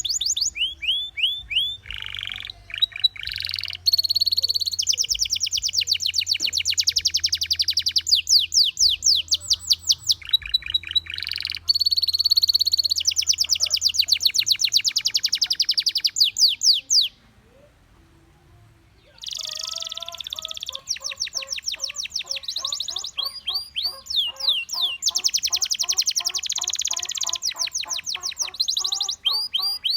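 Gloster canary singing: rolling trills of fast repeated high notes, changing from one tour to the next. The song stops for about two seconds past the middle, then resumes with some lower notes under the trills.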